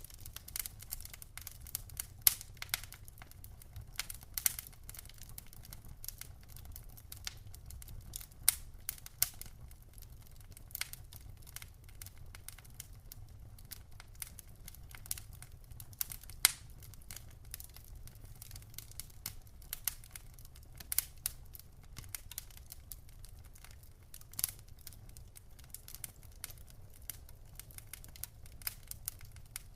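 Wood fire in a fireplace crackling: irregular sharp pops and snaps, several louder ones scattered through, over a low steady rumble of the burning.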